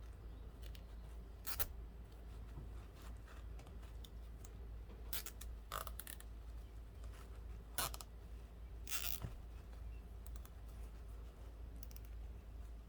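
Short scratching and clicking handling sounds of zip ties and plastic canvas being worked onto a wire wreath frame, about half a dozen scattered through, over a low steady hum.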